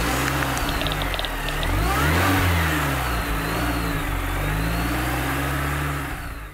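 Car engine sound effect over a logo intro: the engine runs and revs, rising and falling in pitch a couple of times about two seconds in, then holds steady and fades out near the end.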